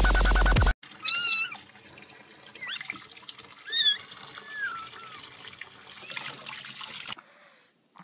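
Electronic dance music cuts off less than a second in, then a domestic cat meows four times, short rising-and-falling calls, over a faint steady hiss that stops near the end.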